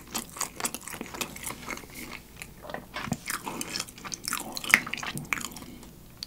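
Close-miked mouth sounds of a person chewing thick gorgonzola pizza: irregular wet smacks, clicks and light crunches, with one sharper click about three-quarters of the way through.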